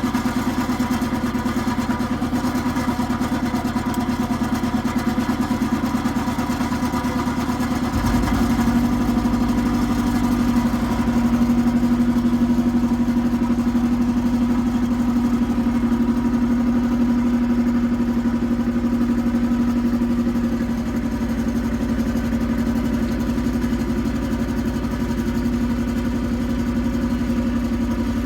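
Iseki TX1300 compact tractor's diesel engine running steadily while ploughing. About eight seconds in, the engine note deepens and gets a little louder, as if taking more load or throttle.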